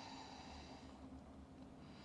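Near silence with faint breathing, a soft breath swelling and fading.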